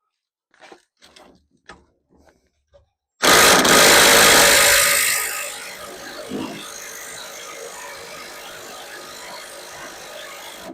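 A small cordless impact wrench hammering on a dryer fastener for about seven seconds after a few handling clicks: loud for the first two seconds, then running at a lower level until it stops abruptly. The fastener does not come loose, because it has a left-hand thread and is being driven in the tightening direction.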